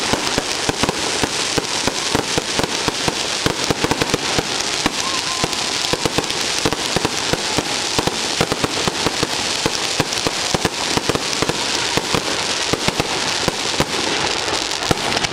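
Fireworks going off in a dense, continuous barrage of crackling and popping, many small bangs every second at a steady loudness.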